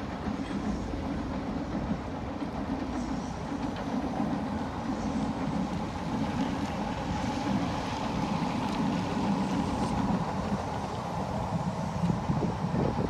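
Electric commuter trains crossing a long river bridge, heard from the riverbank: a steady rumble of wheels on the track, a little louder near the end.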